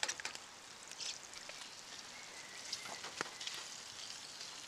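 Eggs frying in oil in a pan over a campfire grill: a steady sizzle with fine crackles, and a few light clicks and knocks of utensils against the pan.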